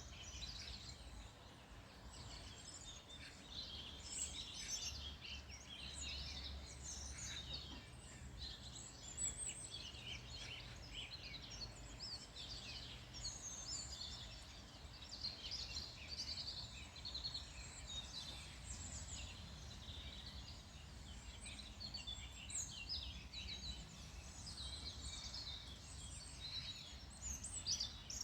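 Wild songbirds chirping and trilling, several calls overlapping continuously, over a faint steady low rumble.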